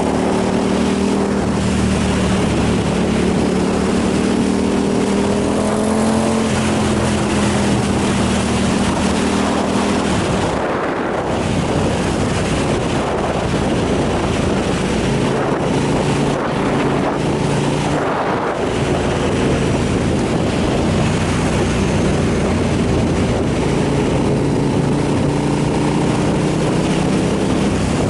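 Motorcycle engine running under way, its note rising at first and then holding steady, with heavy wind noise on the microphone. The engine note drops out briefly twice, about eleven and eighteen seconds in.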